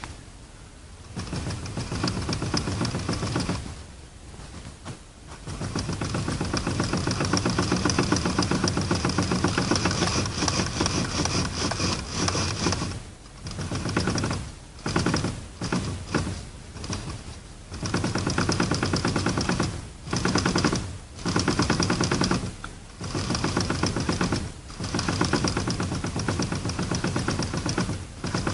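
Steering knock from a worn upper universal joint (cross) on the steering shaft of a 2005 Toyota Corolla E12: a rapid clattering rattle. It comes in bursts of one to two seconds with short breaks between them.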